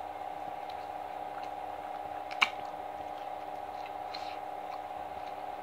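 Close-up wet chewing and squishy mouth sounds of someone eating fried chicken, with small scattered clicks and one sharp, loud crack about halfway through, over a steady background hum.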